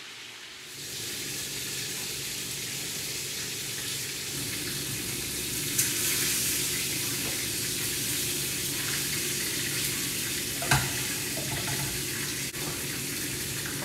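Seasoned turkey wings frying in oil, a steady sizzle, with one short knock late on.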